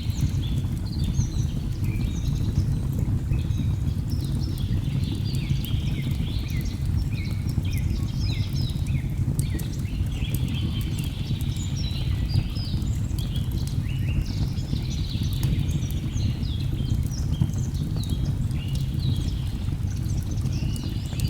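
Steady low rush of a waterfall, with many birds chirping and calling throughout in short overlapping notes, and scattered small sharp crackles of a wood fire.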